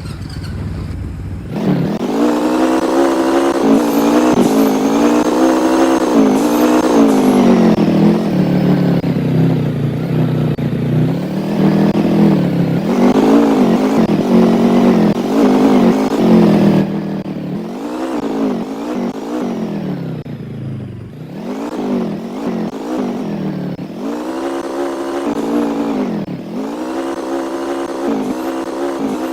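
An engine running, its revs rising and falling again and again.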